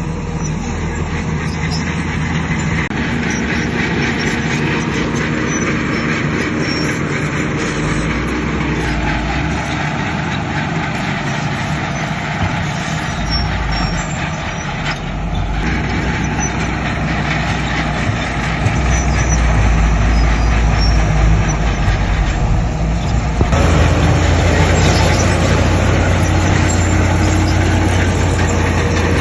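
Heavy diesel construction machinery, a bulldozer and dump trucks, running under load. It is a steady, loud mechanical din that grows louder and deeper about two-thirds of the way through.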